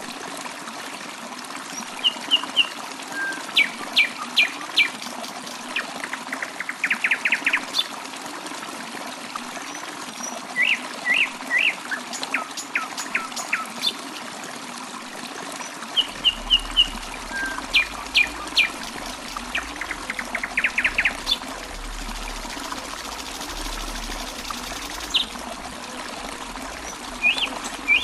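A songbird sings the same song phrase over and over, each a few short high notes, then quick falling whistles, then a fast trill. Behind it runs a steady trickle of water.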